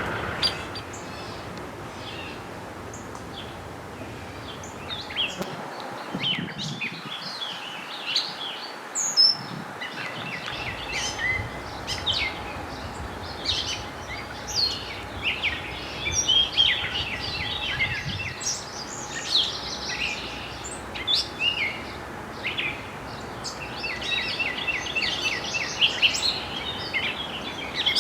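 Several songbirds singing and chirping over a steady outdoor background noise, with a fast run of repeated notes near the end.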